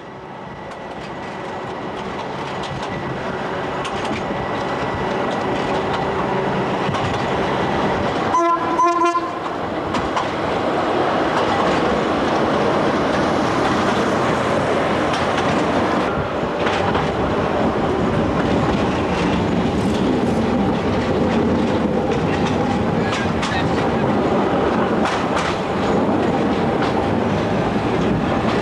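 A train running on rails, growing louder over the first ten seconds or so as it comes closer. Its horn sounds briefly about eight seconds in, followed by a steady rumble with the wheels clacking over rail joints.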